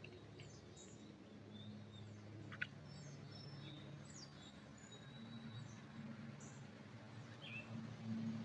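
Faint songbirds chirping in a pine forest: scattered short, high chirps and thin whistled notes from several birds. There is a steady low hum underneath, and one sharp click about two and a half seconds in.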